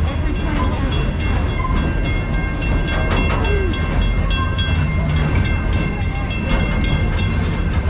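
Ride train rolling along its track, heard from aboard: a steady low rumble with rapid clicking and rattling. A thin steady squeal runs through the first half.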